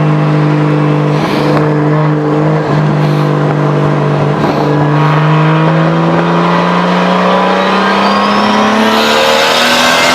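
Nissan 240SX's big-turbo 2JZ-GTE straight-six under hard acceleration, its revs climbing steadily and smoothly through one gear. A faint high whistle rises along with it in the second half.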